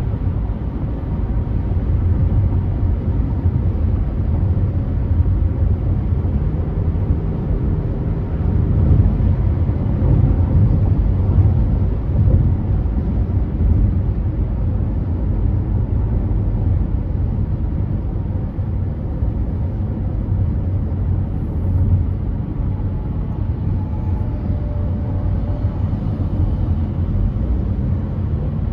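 Car driving at freeway speed: a steady low rumble of road and tyre noise.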